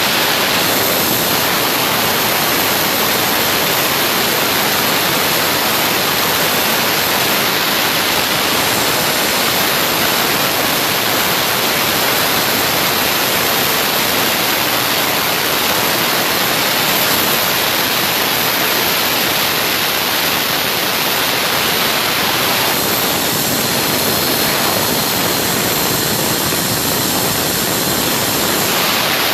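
Oxygen-producing machine running: a loud, steady rushing hiss of air or gas flow that does not let up.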